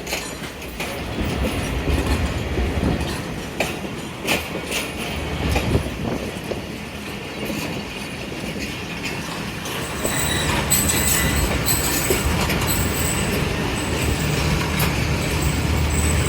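Passenger train rolling through a station: a steady low rumble, with wheels clicking over the rail joints. About ten seconds in it gets louder and a thin, high, on-and-off wheel squeal sets in.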